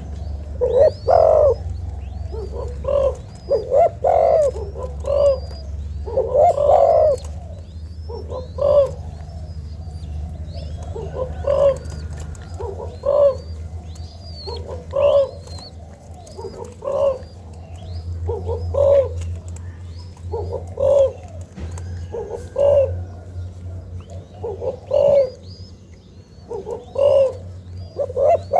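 Young spotted dove cooing, a short phrase about every two seconds, with small birds chirping high and faint in the background over a steady low hum.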